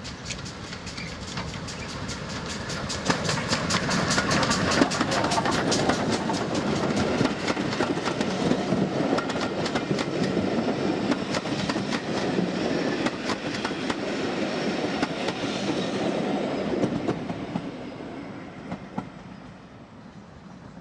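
A train passes at speed, its wheels clicking rhythmically over the rail joints. The sound builds over the first few seconds, holds, then fades away in the last few seconds.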